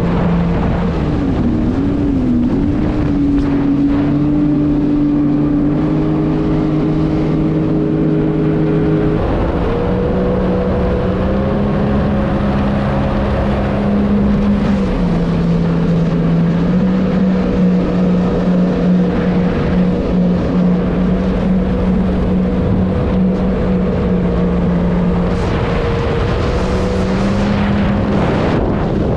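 Jet ski engines running under way, their pitch stepping up and down with the throttle, with wind buffeting the microphone.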